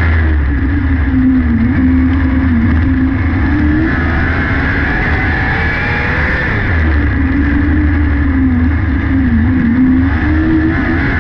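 600cc micro sprint car's four-cylinder motorcycle engine running hard at racing speed, its loud note falling and rising again as the throttle is lifted into the corners and reopened down the straights, in a pattern that repeats about every six to seven seconds.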